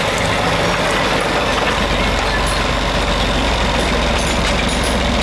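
A machine running steadily with a low hum and a dense, even noise.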